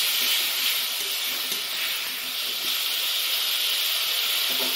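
Sliced onions with garlic and dried red chilli paste sizzling steadily in hot oil in an iron kadai as they are stir-fried.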